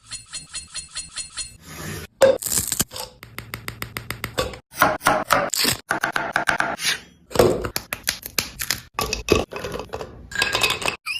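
Kitchen preparation sounds in quickly cut snippets: utensils scraping and clinking against bowls and dishes, with sharp knocks and runs of quick regular taps. A brief patterned sound effect comes at the very start.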